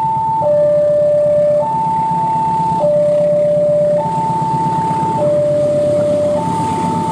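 Railway level crossing warning alarm sounding a steady electronic two-tone signal, alternating high and low about every second, over a steady low rumble.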